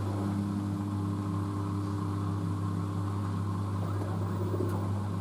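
LG DirectDrive F1496AD washer dryer running with a steady low mechanical hum.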